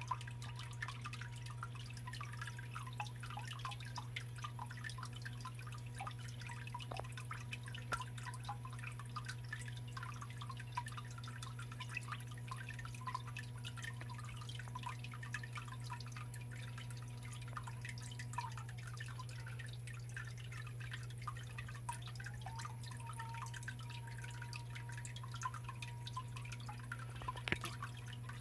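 Water from a small waterfall in a stone garden biotope pond, trickling and dripping with many small, irregular splashes. A steady low hum runs underneath.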